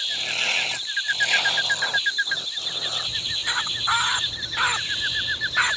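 Honey badger calls: short, high-pitched, pitch-sliding cries scattered through, thickest in the middle seconds, over a steady fast chirping trill like insects in the background.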